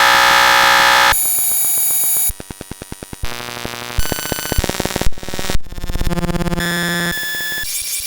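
A rapid string of electronic sound effects: buzzes, synthesizer tones and alarm-like beeps, each cut off abruptly and replaced by a different one about every half second to a second, about a dozen in all, with a stretch of quick repeated pulses near the middle.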